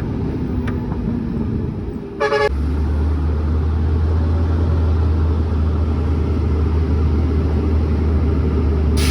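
Heavy truck engine running, with a short horn toot a little over two seconds in; right after it the engine's low drone grows louder and holds steady.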